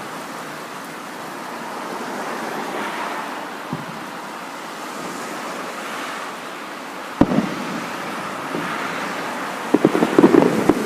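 Fireworks at a display: a steady wash of noise like surf and wind, then a single sharp firework bang about seven seconds in and a rapid run of bangs near the end.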